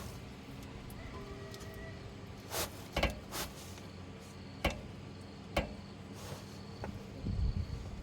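A steady low hum with a handful of short, sharp knocks and clicks scattered through it.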